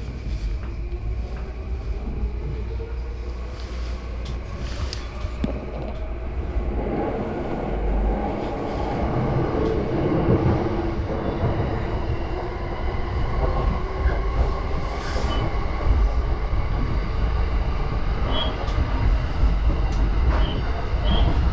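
JR Yamanote Line commuter train running on the track, heard from inside the carriage: a continuous rumble of wheels and car body with a faint steady whine that grows louder about seven seconds in, with a few short clicks from the rails.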